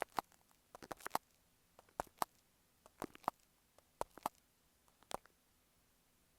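Fingertips tapping on an earphone microphone: short, sharp taps, singly or in quick pairs, about once a second, stopping a little after five seconds in.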